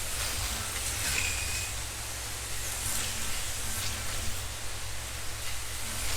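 Several 1/32 scale slot cars racing, their small electric motors and tyres making a steady high hiss and whine, with cars sweeping past close by about a second in and again around three and four seconds.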